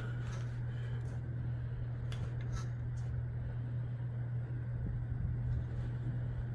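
Steady low mechanical hum, even throughout, with a few faint clicks in the first few seconds; no shot is fired.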